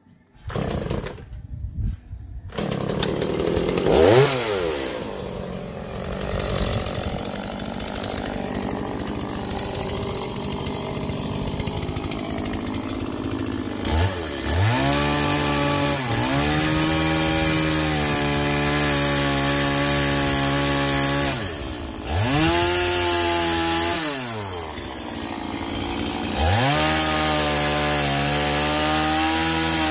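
Small two-stroke chainsaw, a model '180', cutting a log for firewood. It idles at first with one quick rev about 4 s in, then runs up to full throttle about 14 s in. It drops off and revs up again twice later.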